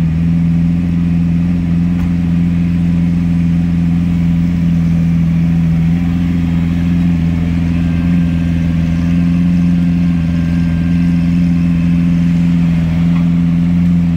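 A vehicle engine idling steadily, an even low hum that does not rise or fall.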